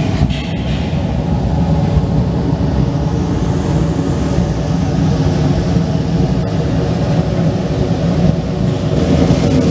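Heated high-pressure parts washer running: a steady low rumble of its pump and spray.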